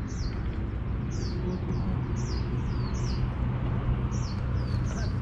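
Birds chirping: a steady series of short, high chirps, each falling in pitch, about two or three a second, over a steady low background rumble.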